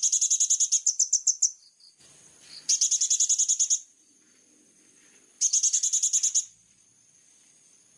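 Small songbird singing rapid high trills of evenly repeated notes, about ten a second, in three bursts of about a second each: at the start, about three seconds in and about five and a half seconds in. The song is birdsong meant as fill-in song for training a kolibri ninja (konin).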